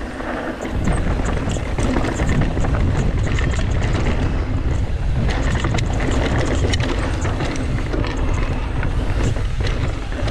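Mountain bike descending a rocky dirt trail at speed: wind buffeting the microphone over tyre and trail noise, with many small clicks and knocks of the bike rattling over rocks.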